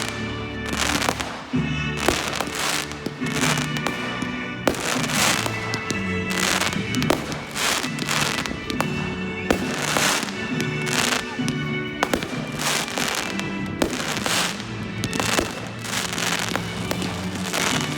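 Fireworks going off in a rapid, unbroken run of bangs and crackles, with music playing underneath.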